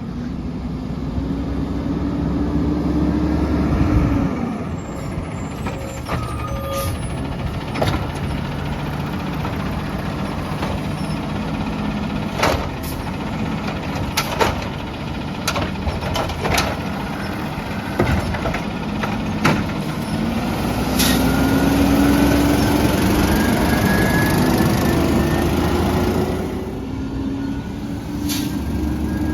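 Peterbilt 320 garbage truck working. Its engine is held at high revs, then drops back sharply about four seconds in. A series of sharp clanks and knocks follows, and near the end the engine revs up again with a slowly rising pitch.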